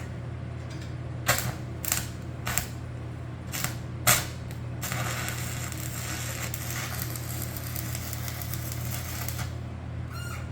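Stick welding on sheet steel: several short crackling bursts as the rod is struck and tacks are laid, then about five seconds of continuous arc crackle as a bead is run, stopping a second before the end. A steady low hum runs underneath.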